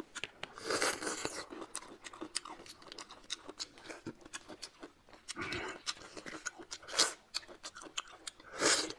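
Close-miked eating: bites and crunchy chewing of roasted bamboo shoot, with many small clicks. Louder crunches come about a second in, around six seconds, and as a sharp snap about seven seconds in, with another loud crunch near the end.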